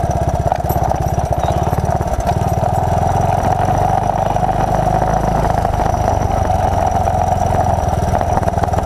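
1981 Honda XL185's single-cylinder four-stroke engine running steadily under way, its note shifting about two seconds in and again a little past halfway.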